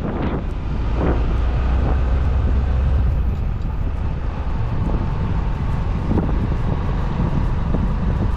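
A vehicle running steadily with a low rumble, with wind buffeting the microphone and a few brief whooshes.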